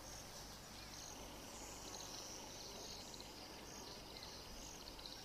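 Faint outdoor nature ambience: a steady wash of high-pitched chirping over low background hiss.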